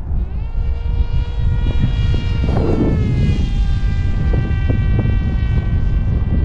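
Brushless electric motor and pusher propeller of an RC flying wing (a 2212 motor on a 4S battery) throttling up to a steady high whine just after the start. The pitch slides down a little near the middle as it passes by, over a low rumble.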